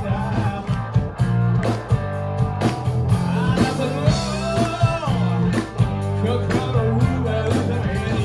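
Rock band playing live: electric guitar over bass and steady drum beats.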